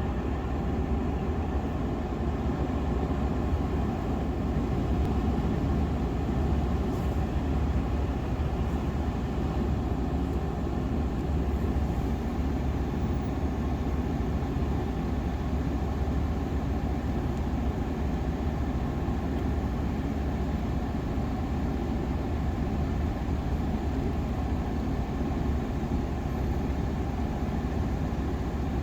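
Steady low rumble of a car driving, heard from inside the cabin: road and engine noise with no change.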